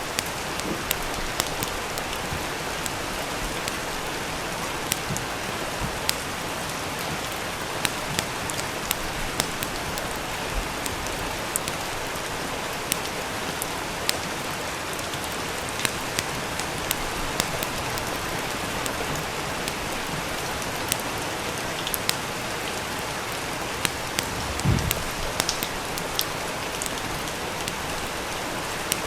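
Steady rain, with short sharp crackles and pops of a wood fire scattered through it, and one low thump near the end.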